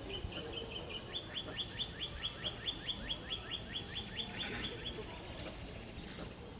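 A bird calling a long, even series of short downward-slurred notes, about five a second for several seconds, followed by a few higher, thin chirps near the end.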